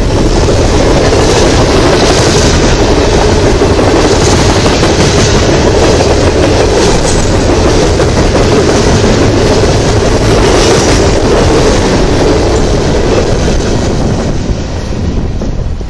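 Coal hopper cars of a freight train rolling past close by: a loud, steady rumble of steel wheels on the rails. The sound drops away about fourteen seconds in as the last car clears.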